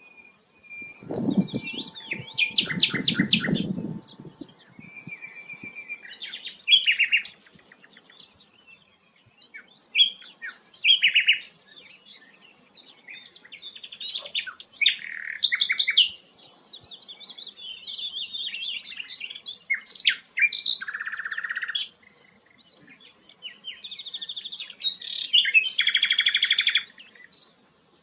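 Sikatan londo flycatcher singing a varied song in a series of separate phrases of rapid trills, buzzy chatter and short whistles, with brief pauses between them. Early on, a low rumbling noise sounds under the song.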